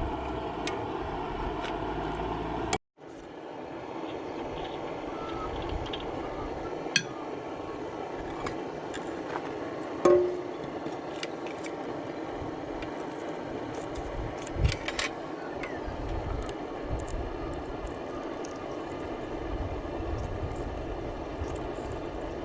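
McDonald PB two-stroke diesel engine running steadily, with scattered sharp clicks over the running noise. The sound cuts out completely for a moment about three seconds in and resumes with less low rumble.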